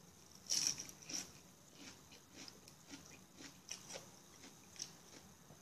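A person chewing food close to the microphone: irregular soft clicks and mouth smacks, roughly two a second, with one louder burst about half a second in.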